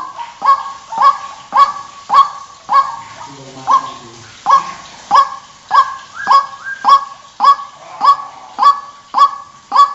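White-breasted waterhen calling as a lure recording: a loud harsh note repeated evenly about twice a second, with a short break a little past a third of the way through.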